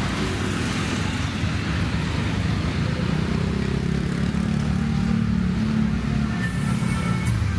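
Road traffic passing along a city street: a steady wash of engine and tyre noise, with a low engine hum that grows louder for a few seconds in the middle as a vehicle goes by close.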